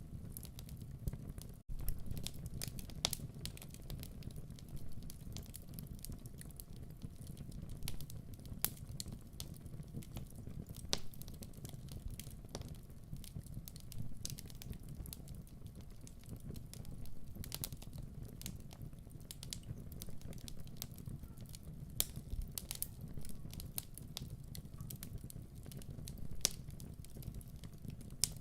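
Wood fire crackling in a fireplace: a steady low rumble of burning with irregular sharp pops and crackles throughout, and a brief break in the sound just under two seconds in.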